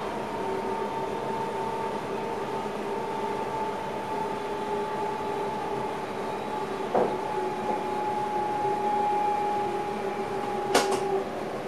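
NS passenger train running, heard from inside the driver's cab: a steady rumble of wheels on rails with two steady whining tones from the drive. There is a knock about seven seconds in and a sharp click near the end, after which the whine stops.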